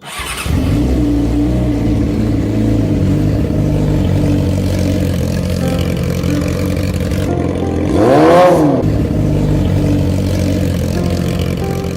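Motorcycle engine running steadily, with one quick rev rising and falling about eight seconds in.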